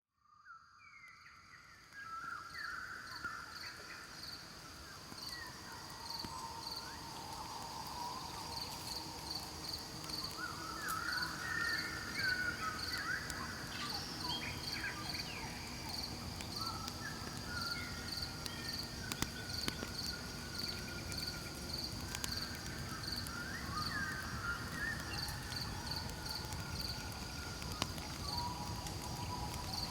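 Night forest ambience: crickets chirping steadily in a high pulsing trill, with other night creatures calling in gliding whistles. Underneath, a campfire burns with a low rush and occasional sharp crackles, fading in over the first two seconds.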